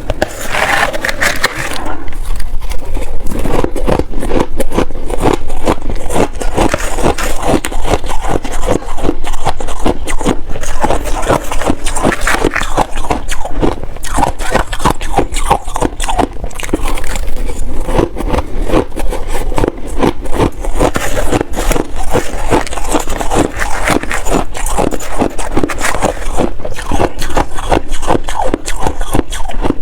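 Shaved ice being crunched and chewed in big bites, close to the microphone: a fast, unbroken run of crisp crunches.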